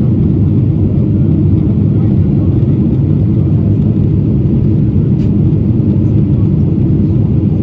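Steady low roar of a Boeing 777-300ER in flight on approach, its GE90 engines and the airflow holding at a constant level.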